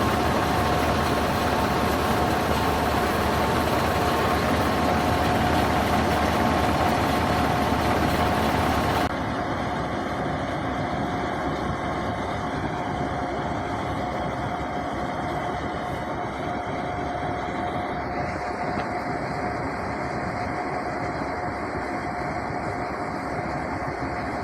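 Combine harvester running steadily, a continuous machine noise with a steady whine through it. About nine seconds in, the sound drops abruptly and loses its hiss.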